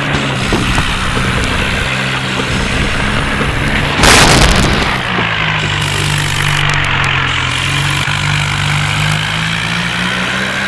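John Deere tractor's diesel engine running steadily, with a loud sudden bang about four seconds in; right after it the engine note drops and then slowly climbs again as it takes up load.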